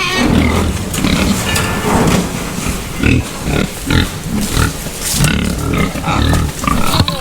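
A group of hungry pigs keeps up a continuous, irregular clamour of grunts and squeals. They are agitated because their feeder has run empty.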